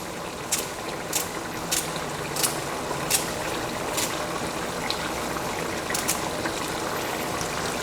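Knife chopping a carrot into pieces on a cutting board: sharp chops at roughly even spacing, about one a second. Under them runs the steady hiss of a pot of curry bubbling on the stove.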